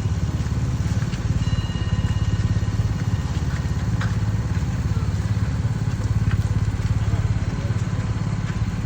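Pickup truck's engine and road rumble heard inside the cab, a steady low drone with a few faint clicks.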